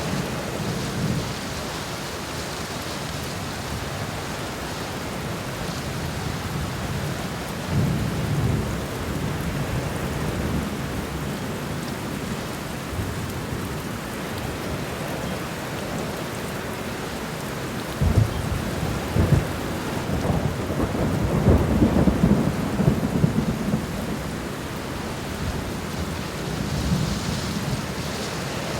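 Steady rainfall on garden ground and leaves, an even hiss throughout. Deep low rumbles swell up about a quarter of the way in and again, longer and louder, around two-thirds through.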